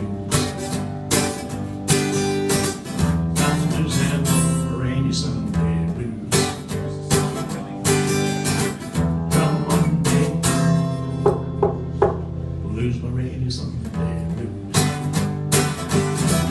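Acoustic guitar strummed in a steady rhythm with ringing bass notes: the instrumental ending of a blues song.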